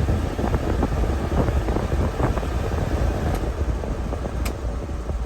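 The small engine of a 1998 Mitsubishi Minicab kei truck running steadily, a low rumble with a few faint clicks.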